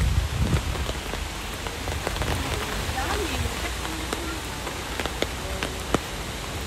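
Rain falling steadily, with many drops ticking on the open umbrellas overhead. Gusts of storm wind buffet the microphone at the start, then ease off.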